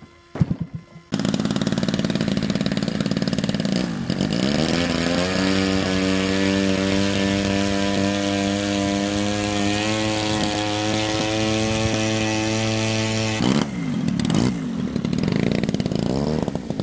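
Small model-aircraft engine running at high revs, like a two-stroke: it cuts in abruptly about a second in, revs up around four seconds in, holds a steady pitch, then drops and picks up again near the end.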